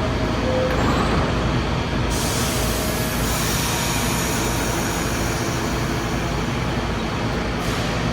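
New York City subway train at a station platform, running with a steady rumble. A long high hiss starts about two seconds in and cuts off about five seconds later.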